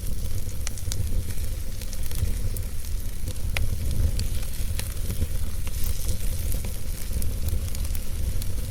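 Campfire crackling and hissing, with scattered sharp pops, over a steady low rumble.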